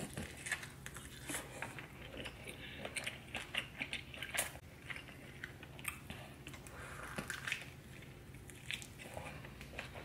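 Close-miked eating: a person biting and chewing saucy seafood boil, with many short, irregular mouth clicks.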